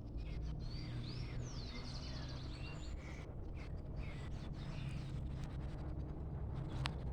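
Several birds calling in a wood, with rising and falling chirps and a short rapid trill in the first few seconds, over a low steady rumble.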